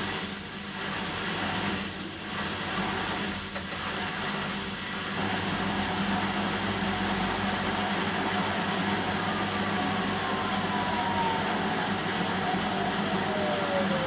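Bosch front-loading washing machine running a synthetics 40 °C cycle with a steady motor hum. It surges a few times in the first five seconds, then runs evenly, and a tone glides down in pitch near the end.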